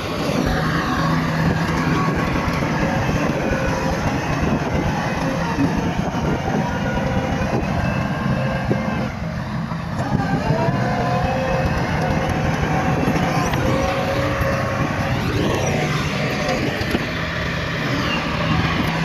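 Bulldozer diesel engine working under load, its pitch rising and falling as the machine pushes, with a short lull about nine seconds in.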